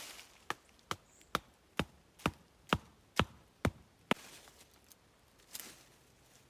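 Nine evenly spaced chopping strikes, about two a second, stopping about four seconds in.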